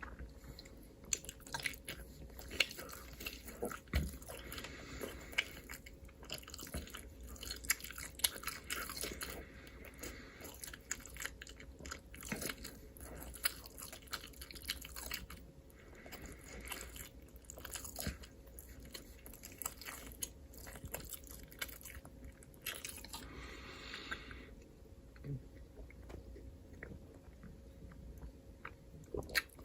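Close-miked chewing and biting of crunchy food, with many irregular sharp crunches and wet mouth clicks.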